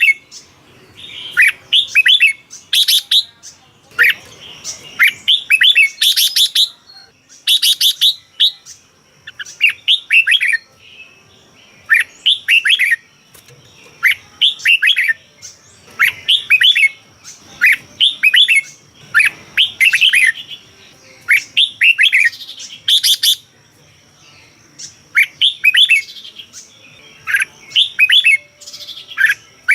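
Red-whiskered bulbul singing: short, bubbly phrases of quick whistled notes, one every second or two.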